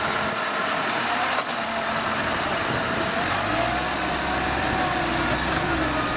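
Engine of a large rice-hauling tractor running, loaded full of rice, with a wavering mechanical whine; a deeper low rumble joins about three seconds in.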